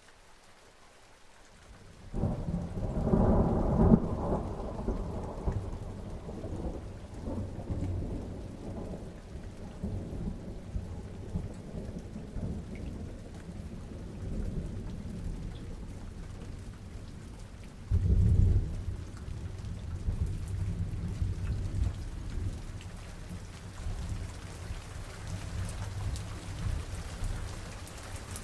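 Steady rain with thunder. About two seconds in, a loud thunderclap starts and rolls on in a long, low rumble. A second rumble of thunder comes about two-thirds of the way through.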